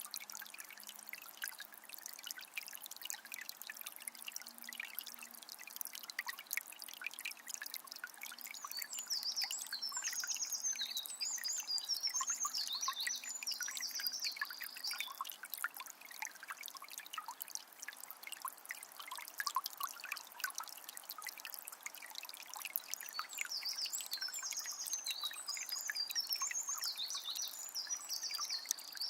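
Water from a small spring trickling and splashing steadily. Birds sing high chirping phrases over it for several seconds in the middle and again near the end.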